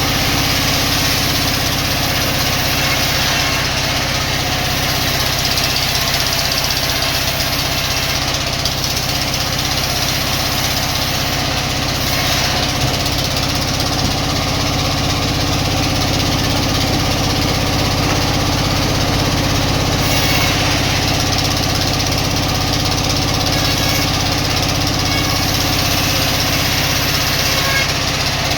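Sawmill machinery running steadily, a constant low engine-like drone with a noisy hiss over it that does not change.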